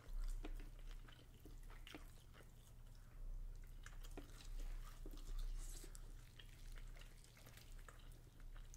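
Close-up chewing and small wet mouth sounds of people eating turkey leg meat, with scattered soft clicks as the meat is pulled from the bone by hand.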